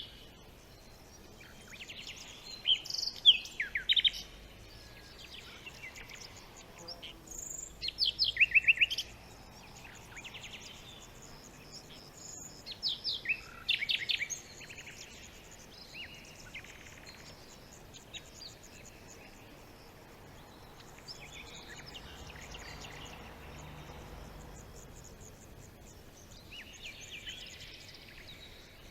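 Several songbirds singing in a forest, in short bursts of quick high chirps and trills with quieter stretches between, over a faint steady background hiss.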